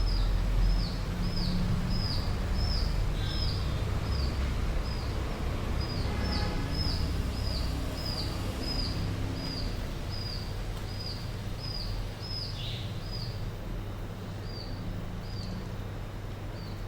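A bird calling over and over, a short high chirp that slides downward, repeated about one and a half times a second, over a low steady rumble.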